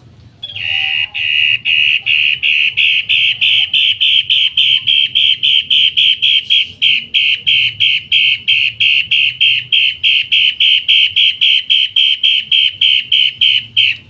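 Caged cendet matahari calling a long run of loud, harsh, identical notes, about four a second, starting about half a second in.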